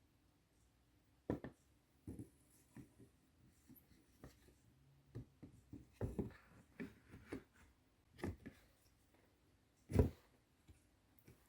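Scattered clicks and light knocks of small gear lever tower parts being handled and fitted by hand, irregular, with the loudest knock about ten seconds in.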